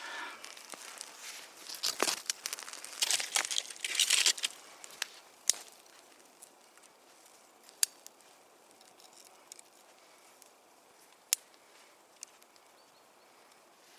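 Dry kindling for a campfire rustling and crackling, with several sharp snaps in the first few seconds, then quieter with a few isolated sharp pops.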